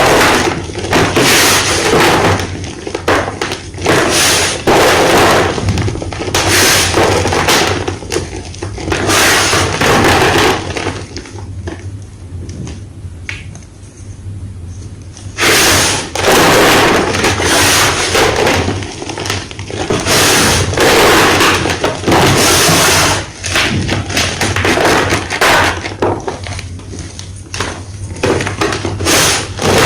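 White gym chalk crunching and crumbling close to the microphone in repeated crisp crunches, with a quieter lull of a few seconds about halfway through.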